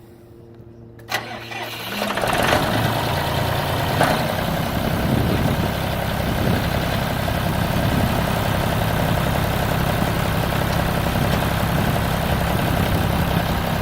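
John Deere 5400 tractor's diesel engine cranked and catching a little under two seconds in, after sitting for several hours, then idling steadily.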